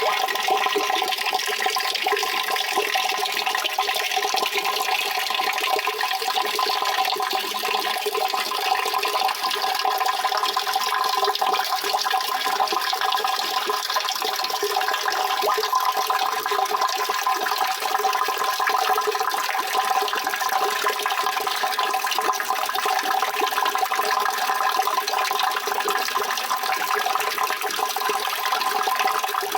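Steady rushing water, an even unbroken sound that does not change.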